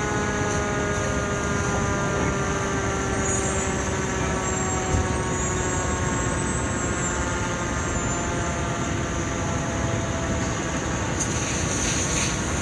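Vehicles running at a roadside crash scene: a steady pitched hum that slowly falls in pitch and fades over about ten seconds, over a constant rushing noise. A high hiss comes in near the end.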